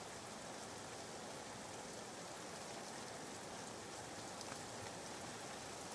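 Soft, steady rain ambience, an even hiss with a few faint drop ticks, laid in as background white noise for sleep.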